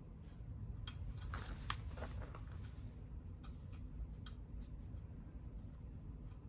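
Light clicks and scrapes of small hand tools and engine parts being handled: a quick cluster about a second in, then a few single clicks, over a low steady rumble.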